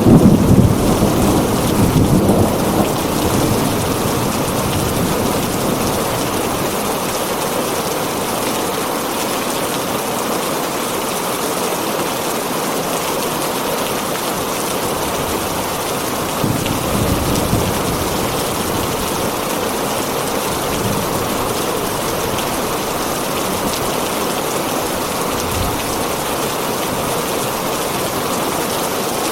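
Heavy rain falling steadily on a tin roof, with a rumble of thunder fading away over the first few seconds and a shorter, fainter rumble a little past halfway.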